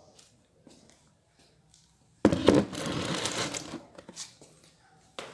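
A burst of close rustling and crinkling handling noise, about two seconds long, starting a couple of seconds in, followed by a few faint clicks.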